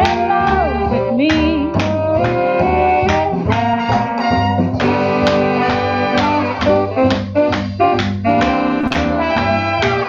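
Swing jazz band music with horns over a steady beat.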